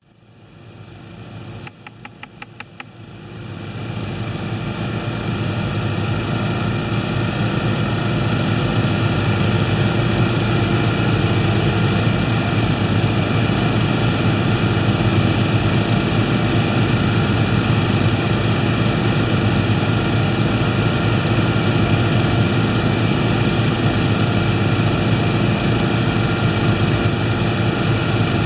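Tecumseh lawn mower engine running steadily at idle. It fades up over the first few seconds, with a few clicks about two seconds in.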